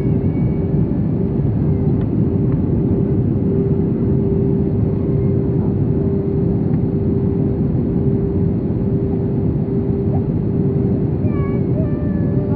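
Airbus A320 cabin noise during descent: the steady rumble of engines and airflow with a steady humming tone, unchanging in level.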